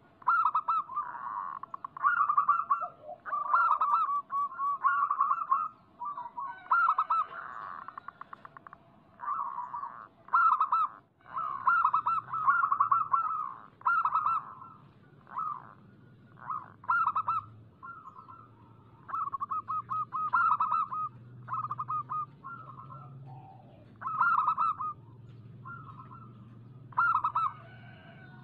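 Zebra doves (perkutut) singing: bursts of quick, rolling coos repeated every second or two, in a recording meant as a lure to set caged perkutut singing.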